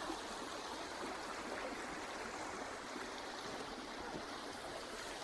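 Stream running: a steady rush of flowing water.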